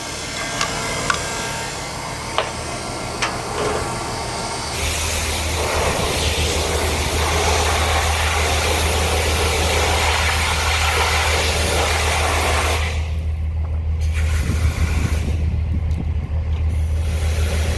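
High-pressure water spray starts suddenly about five seconds in and runs steadily over a low motor hum, washing out a trailer; the spray cuts off twice briefly near the end while the hum continues. Before it, only a low hum with a few clicks.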